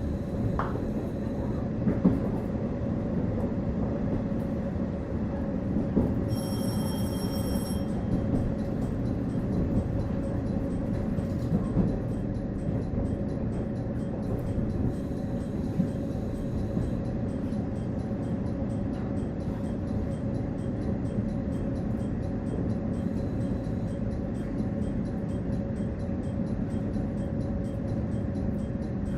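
KiHa 48 diesel railcar running, heard from inside the car: a steady engine and wheel rumble with a constant hum, and a few knocks from the wheels over the rails. A brief high ringing tone sounds about six seconds in.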